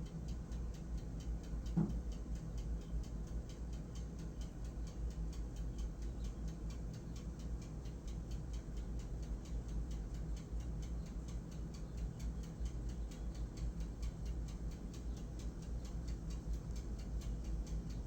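Mallard drakes feeding, their bills pecking and dabbling at food in a rapid run of small clicks, over a steady low rumble. There is one brief low sound about two seconds in.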